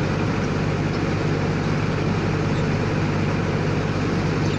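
Rice combine harvester running, a steady, unchanging engine drone.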